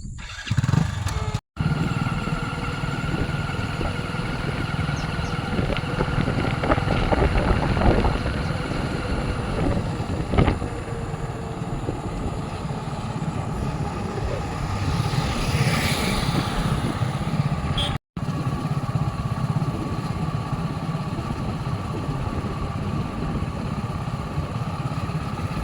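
Motorcycle engine running steadily under way, a constant low rumble. The sound cuts out for an instant twice.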